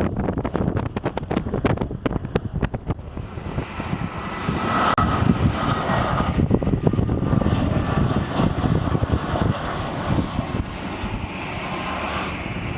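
Jet airliner passing with its engines running, a rising rush joined by a steady high whine from about four seconds in. Wind buffets the microphone throughout.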